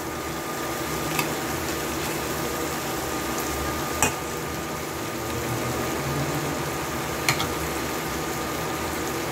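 Chicken sisig sizzling steadily in a stainless steel pan while a metal spatula stirs it, with a sharp click of the spatula against the pan three times.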